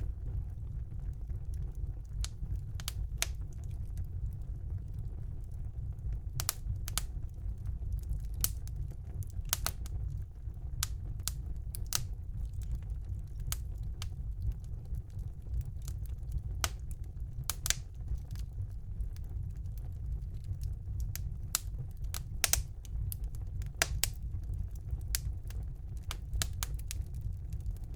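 Wood fire burning in a fireplace: a steady low rumble of the flames with sharp crackles and pops at irregular intervals, several a second in places.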